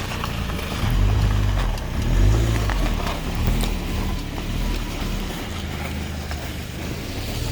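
Car engine running, revving up and down several times in the first few seconds, then settling to a steadier note.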